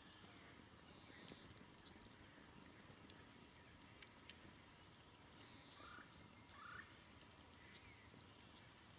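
Faint campfire crackling, with scattered sharp pops, the loudest a little over a second in. Distant birds chirp throughout, and two short, lower calls, typical of a distant fowl, come about six seconds in.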